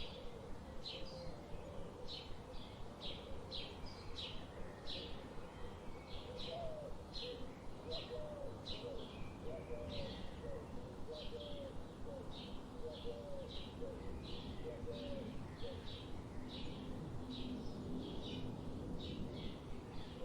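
Forest birdsong: short high chirps repeated about twice a second, with a lower, wavering call note repeated through the middle, over steady background noise.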